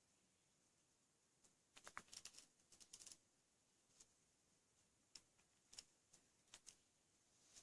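Faint, irregular small clicks and taps: a quick cluster about two to three seconds in, then a few single ticks spaced out after it.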